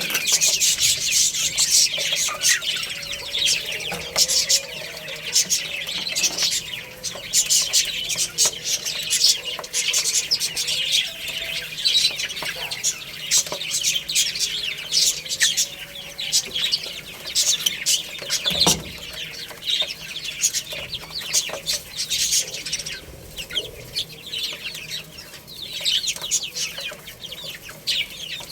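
A crowd of baby chicks peeping continuously, many short high-pitched chirps overlapping, with some lower clucks underneath.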